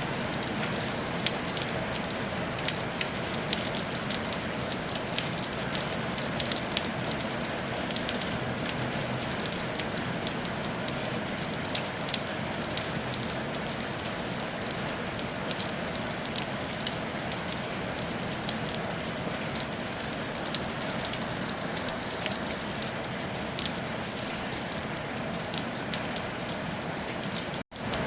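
Steady rain on a tile roof, with many individual drops ticking sharply through an even hiss. The sound cuts out for an instant near the end.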